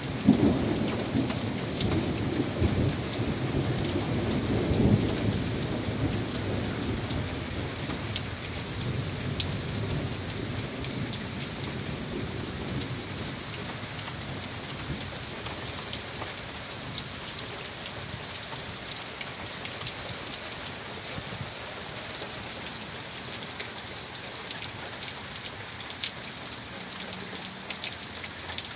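Steady heavy rain hissing, with scattered sharp ticks of individual drops. A roll of thunder rumbles in right at the start, swells about five seconds in, and fades away over the next few seconds.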